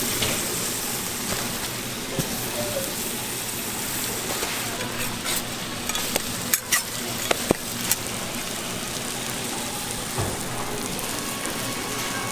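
Food frying on a hot griddle: a steady sizzling hiss, with a few sharp clicks of a metal utensil about halfway through.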